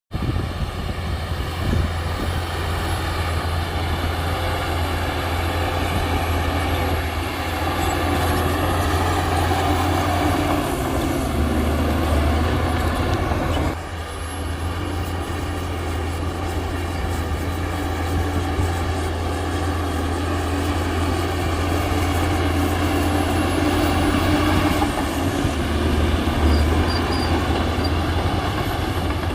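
Shantui bulldozer's diesel engine running steadily as it works, a continuous low drone whose note shifts a few times, with a brief drop in level about fourteen seconds in.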